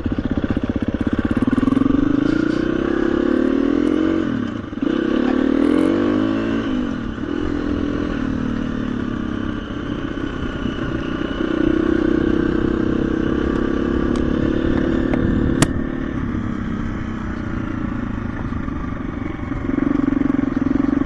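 KTM 350 EXC-F single-cylinder four-stroke dirt bike engine running while riding, its revs rising and falling several times in the first seven seconds and then holding steadier. A single sharp click near the three-quarter mark.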